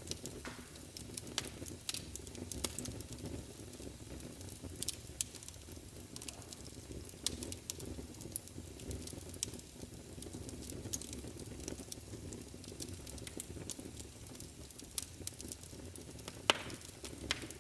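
Wood fire burning in a fireplace: a steady low rumble of flames with frequent scattered crackles and pops, one sharper pop near the end.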